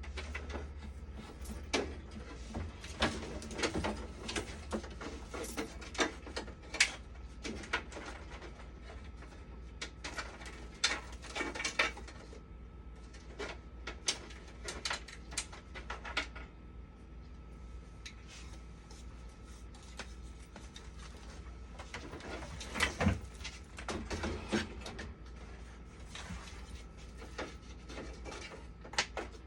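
Scattered clicks, taps and knocks of small parts and tools being handled during repair work on a dialysis machine. Under them runs a steady low hum and a faint steady high tone.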